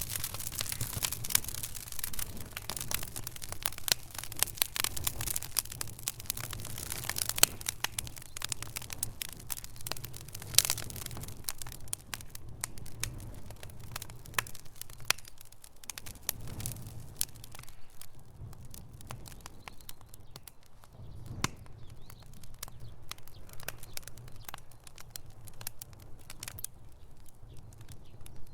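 Wood fire in a fireplace crackling: frequent sharp pops and snaps over a low rumble of flame. The pops come thick for about the first twelve seconds, then more sparsely.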